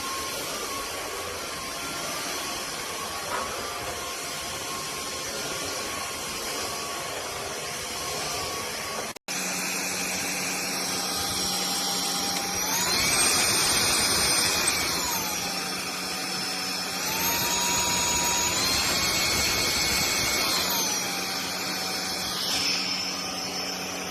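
FDUXUD cordless stick vacuum's motor running with a steady whine. After a short break about nine seconds in, it runs on and its pitch rises and falls several times as the motor speeds up and slows down.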